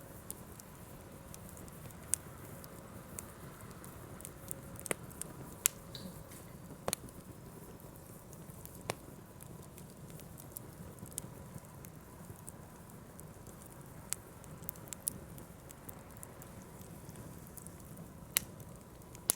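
Wood campfire burning, the firewood crackling with irregular sharp pops and snaps over a low steady hiss of the flames.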